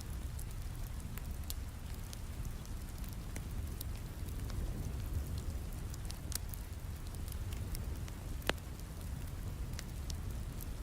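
Steady rain mixed with a crackling fireplace fire: scattered sharp snaps and pops over the even rush of the rain, with one louder pop about eight and a half seconds in.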